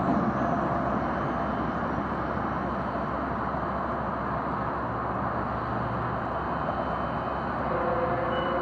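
Steady rumble of a Metrolink commuter train pulling away down the track, easing off in the first second and then holding level, mixed with road traffic noise.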